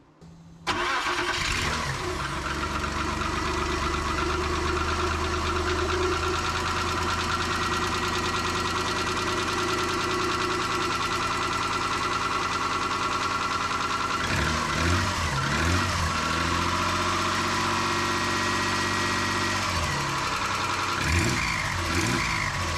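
1995 Nissan Pathfinder WD21's 3.0 L V6 firing up suddenly about a second in, then idling steadily on a test fire after a timing-belt replacement, with the timing belt bare and no accessory belts fitted. The engine note wavers briefly twice in the second half, and an exhaust leak toward the back is audible.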